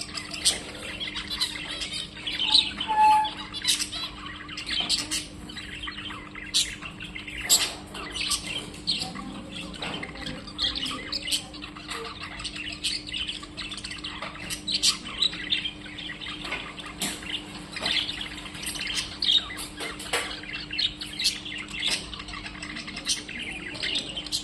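Birds chirping and calling: many short, sharp calls, a few loud ones standing out, over a steady low hum.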